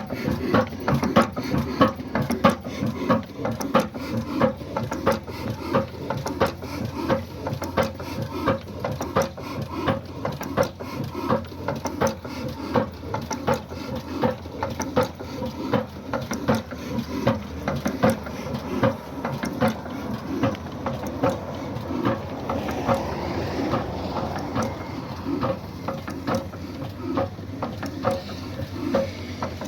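Old black Ruston Hornsby stationary diesel engine running steadily, its knocks and valve-gear clatter beating in an even rhythm of a few beats a second.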